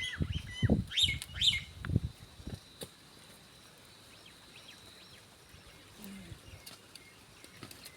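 Small birds chirping in short, quick calls during the first couple of seconds, with a few dull knocks among them; after that the birdsong is faint and sparse against a thin, steady high tone.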